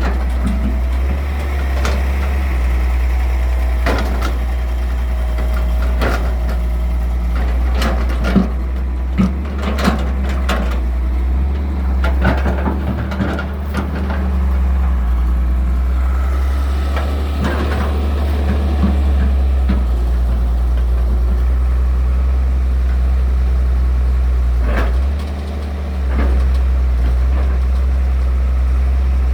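Excavator's diesel engine running steadily, with scattered knocks and clanks from the machine at work, most of them between about 4 and 19 seconds in.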